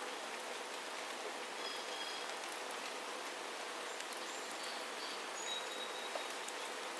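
Steady rain falling, with a few faint, short, high-pitched bird calls in the middle.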